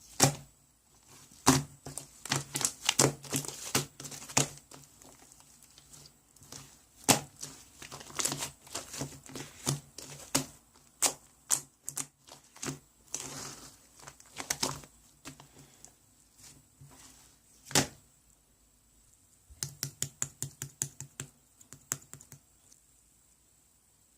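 Irregular sharp clicks and taps in uneven runs, with a quick burst of several clicks a second near the end.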